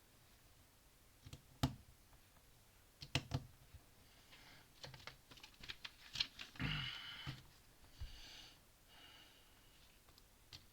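Small plastic Lego pieces clicking and tapping as they are handled and pressed together, with short stretches of rustling in the middle.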